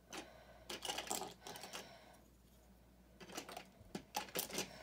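Plastic LEGO pieces clicking and rattling as they are handled and fitted, in two bunches of quick sharp clicks.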